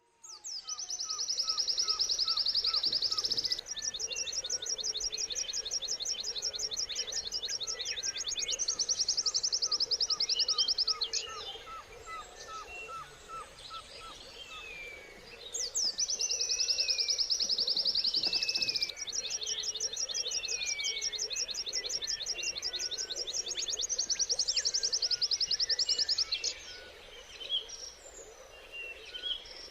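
White-eye (pleci) singing long, very fast high trills of several seconds each, one after another with short breaks, with chirps and short whistled sweeps from other birds in between and a faint steady chorus underneath.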